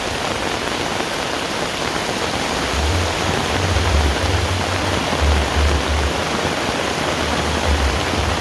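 Heavy rain falling in a steady dense hiss. From about three seconds in, irregular low rumbling buffets come and go beneath it.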